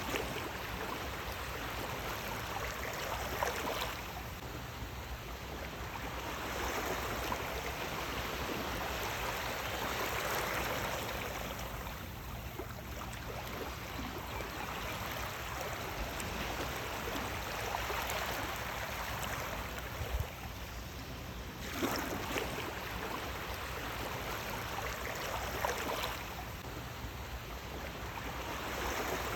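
Sea waves washing onto the shore: a continuous rush of water that swells and eases every few seconds, with a few sharper surges as waves break.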